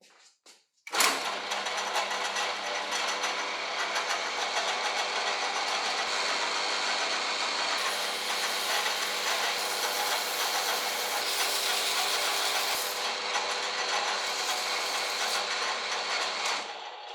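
Electric power tool running steadily with a dense mechanical rattle, starting abruptly about a second in and dying away near the end.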